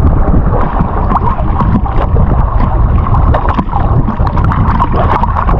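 Loud, muffled rush of seawater heard through an underwater camera's housing, with scattered bubbling clicks and crackles.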